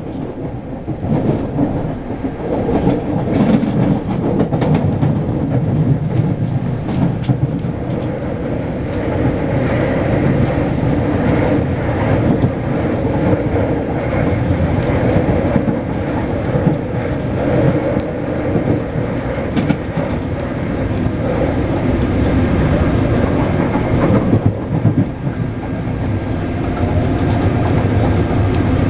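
Taipei Metro C381 train running between stations, heard from inside the car: steady rumbling running noise with a faint steady hum, and wheel clicks over the track that are most frequent in the first several seconds.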